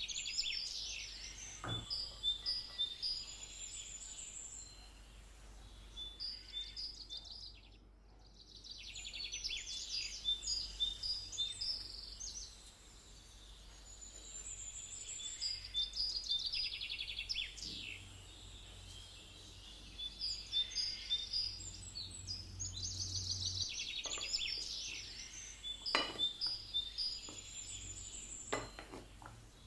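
Birds chirping and trilling in high, quick phrases that come and go in waves, over a faint steady hum, with a few sharp clicks.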